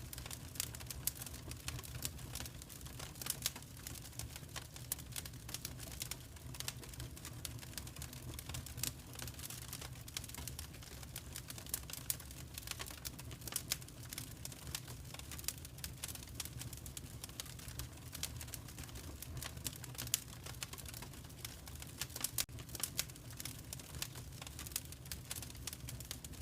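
Wood fire crackling: dense, irregular sharp snaps and pops over a low steady rumble of the flames.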